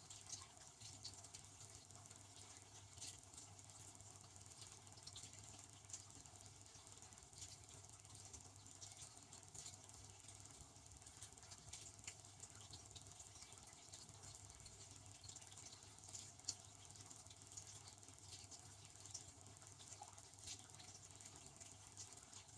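Devanti benchtop dishwasher running, heard faintly: water spraying and pattering inside with scattered light ticks, over a low steady hum.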